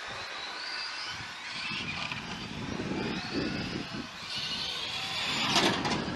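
Radio-controlled cars' motors whining in rising and falling sweeps as the throttle goes on and off, over the rough noise of tyres on the track. A louder short burst of noise comes about five and a half seconds in.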